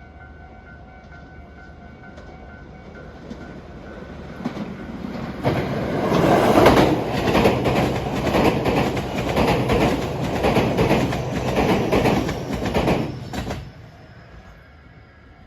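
A train passing close by, its wheels clattering over the rail joints in a quick repeating rhythm. It builds up over the first few seconds, runs loud for about eight seconds, then drops away suddenly.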